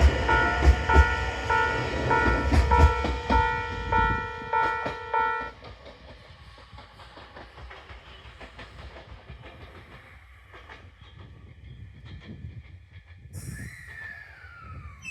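Abukuma Express electric train departing, wheels clattering over the rail joints with a steady rumble. A repeating ringing signal pulses about two to three times a second, then cuts off suddenly about five and a half seconds in. After that the train's rumble carries on much quieter, with a brief falling squeal near the end.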